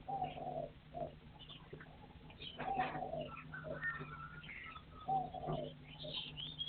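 Partridges calling: a low call repeated three times, about two and a half seconds apart, with higher short chirps from other birds in between, over a faint steady hum.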